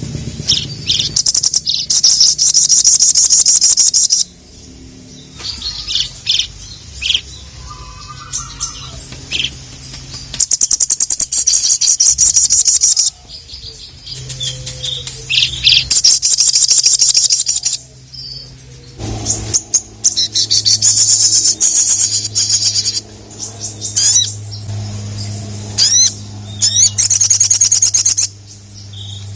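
Sogon (little spiderhunter) singing its lively challenge song: about five loud runs of fast, high-pitched repeated notes, each lasting two to three seconds, with quieter chips between them and a steady low hum underneath.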